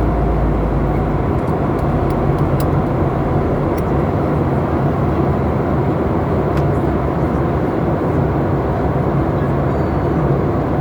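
Steady cabin noise of a Boeing airliner in flight: an even rush of engine and airflow noise with a low hum underneath. The deepest rumble eases about a second in.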